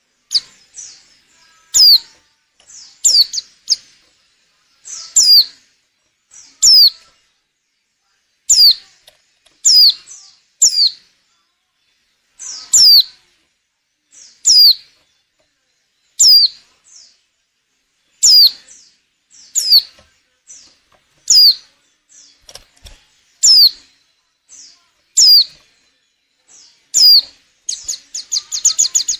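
Female white-eye (pleci) calling: short, high notes that sweep downward, repeated every one to two seconds, breaking into a quick chattering run of notes near the end. These are the calls of a female in breeding condition, used as a lure to draw male white-eyes into song.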